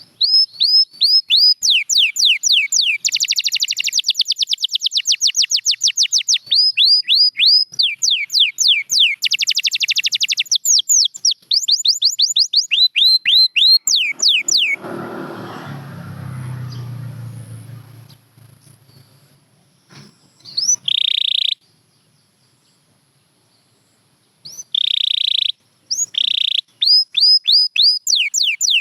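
Canary singing: fast runs of repeated falling notes and dense rolling trills. A soft noisy stretch comes about halfway, then a brief pause, then short held trills and more note runs near the end.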